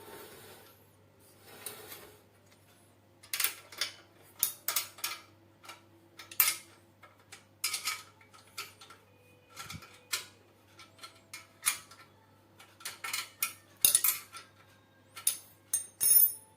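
Metal parts and hand tools clinking and knocking together while a grinder is being assembled: an irregular string of sharp metallic clinks that starts about three seconds in, with the loudest ones near the end.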